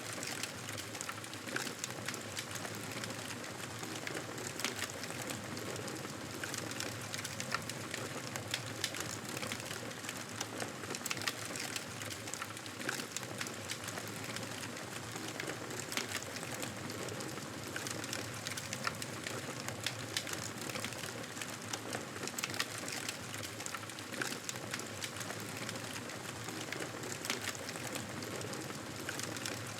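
Fireplace fire crackling: a steady hiss dotted with many small, irregular pops and snaps.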